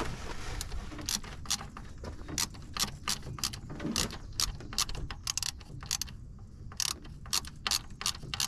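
Hand ratchet wrench clicking in irregular runs of sharp clicks as bolts are turned.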